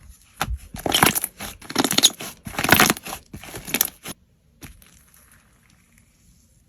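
Slime being squeezed and pressed by hand: about five crackling squishes in the first four seconds, stopping about four seconds in.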